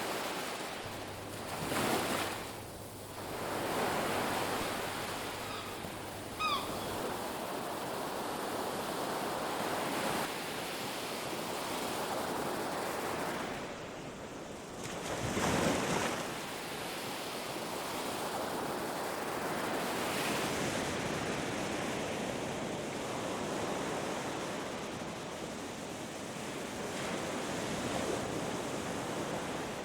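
Ocean surf washing onto a beach, a steady rushing with larger waves breaking and swelling up about two seconds in and again about halfway through.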